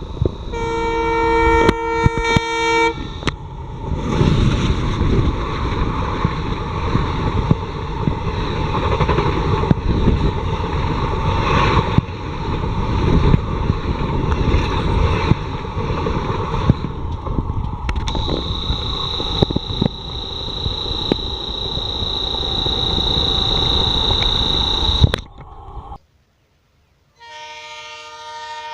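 Indian Railways WDM3A diesel locomotive sounding its multi-note horn for about two and a half seconds. The train then runs loudly for about twenty seconds with heavy rumble and knocks from the rails, and a high steady whine joins in over the last several seconds. The sound cuts off abruptly, and after a brief silence the horn starts again near the end.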